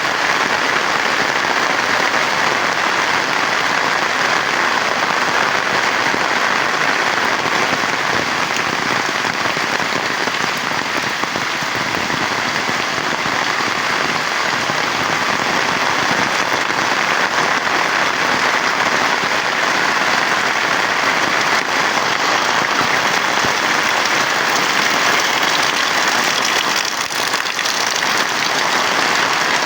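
Heavy rain falling steadily: a loud, dense, even hiss of downpour.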